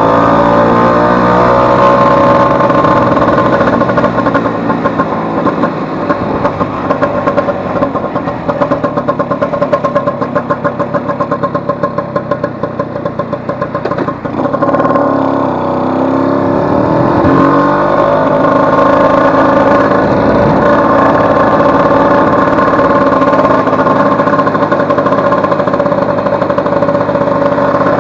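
Vespa 150's two-stroke single-cylinder engine running under test, its pitch rising and falling several times, with an uneven pulsing stretch near the middle before it settles to a steady higher speed. The engine has just been repaired for a loud noise caused by a broken cush-drive gear, and runs without it.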